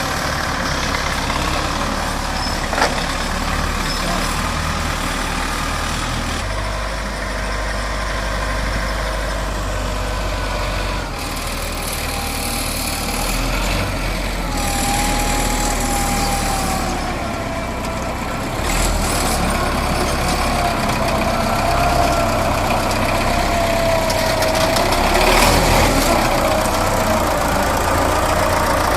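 A truck's engine idling, a steady low rumble with a faint wavering whine above it and one sharp click a few seconds in.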